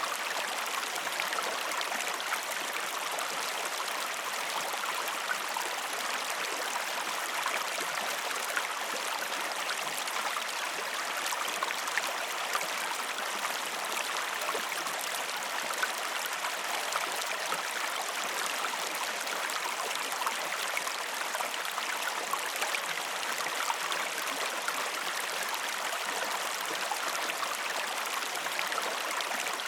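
River water flowing steadily, a continuous rushing with faint splashes and trickles.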